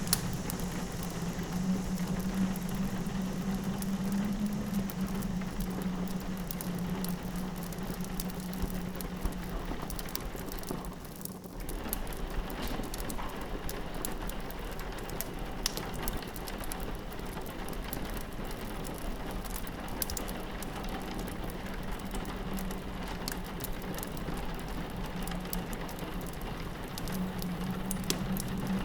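Rain pattering steadily on a window, with a wood fire crackling in sharp pops throughout. A low wind howl is heard for the first nine seconds or so, fades out, and comes back near the end.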